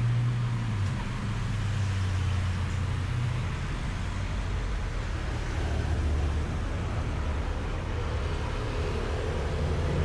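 Motor-vehicle engine running with a low, steady hum that shifts a little in pitch, over a background of road traffic noise.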